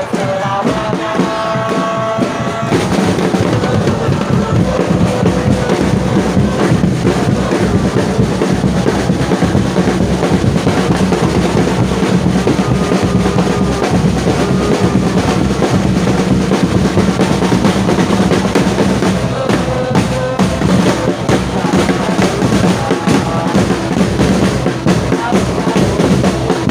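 Football supporters' drums beating fast and without a break, with the crowd chanting along.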